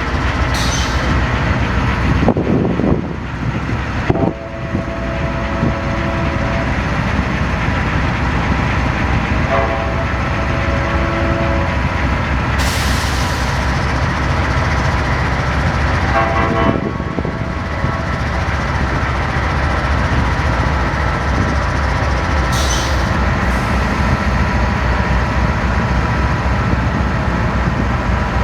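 Diesel freight locomotives running loud and steady past at close range, with a low throbbing engine rumble. The air horn sounds in two blasts, one about four seconds in and another about ten seconds in.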